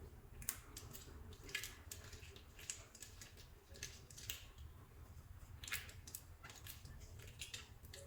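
Soft clay being squished and mixed by hand, giving faint, irregular sticky clicks and crackles.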